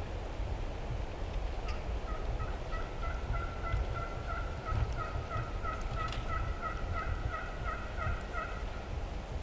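Turkey yelping: a long run of quick, evenly spaced notes that starts a couple of seconds in and stops near the end, over low wind rumble on the microphone.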